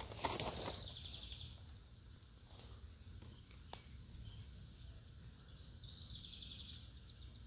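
Quiet woodland ambience with a faint steady low rumble. A bird gives a short trill about a second in and again about six seconds in, after brief rustling at the start and a single click near the middle.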